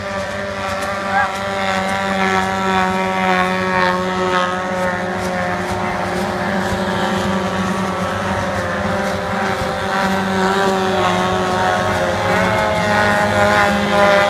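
Engines of small racing boats running at speed: a steady engine whine of several overlapping pitches that drift slightly up and down, growing a little louder near the end.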